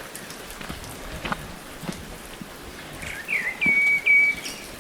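A bird calling about three seconds in: a quick swooping note, then two short, flat, whistled notes. Faint scattered ticks can be heard over a steady outdoor hiss.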